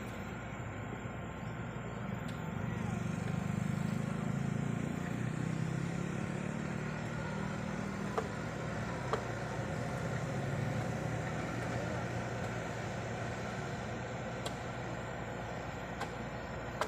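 Diesel engine of heavy earthmoving equipment running. It rises under load about two to three seconds in and eases back over the following several seconds, with a few sharp metallic clicks midway.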